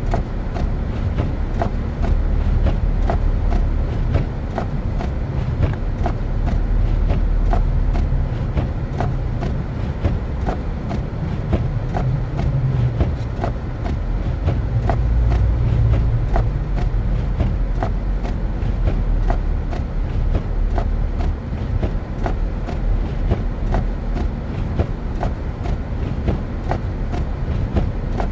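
Car driving on a snow-covered road: a steady low rumble of engine and tyres, with faint sharp ticks at a roughly even pace throughout.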